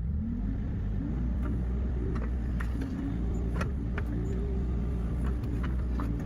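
An engine running steadily at a low pitch, with scattered light clicks and knocks over it.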